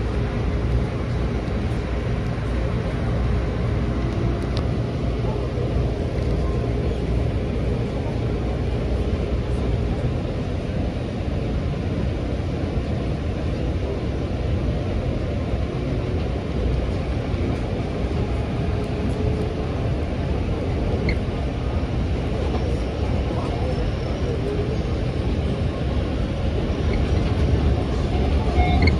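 Steady rumble of a train running along the line, heard from inside a passenger car, with a faint steady tone that fades out about a third of the way in.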